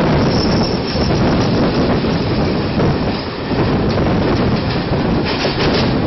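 Passing Indian Railways passenger coaches rumbling over the track alongside, with wheel clatter over the rail joints and a few sharp clicks near the end. Heard from aboard a moving suburban electric train, whose own running noise mixes in.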